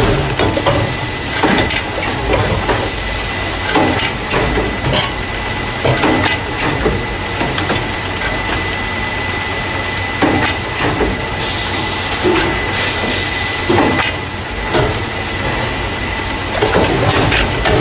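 Carton caser running as it loads paper juice and milk cartons into plastic crates: a steady mechanical rumble with a thin whine, broken by frequent irregular clanks and knocks. A hiss comes in twice, about 3 seconds in and again about 11 seconds in, each lasting a second or two.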